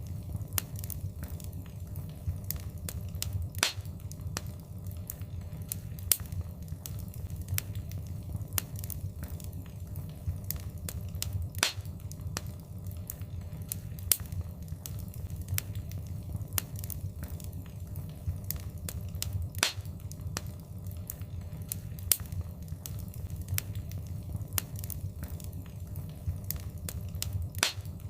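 Wood fire crackling in a fireplace: a steady low rumble of flames with frequent small crackles and four louder pops, about eight seconds apart.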